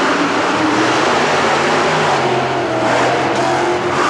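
Monster truck engine running loud and steady, its engine note shifting slightly.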